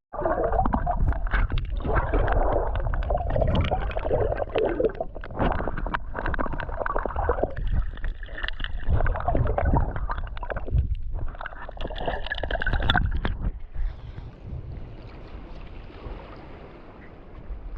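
Ocean water splashing, sloshing and gurgling close to the microphone as someone swims. About 13 or 14 seconds in, the splashing gives way to a quieter, steady hiss.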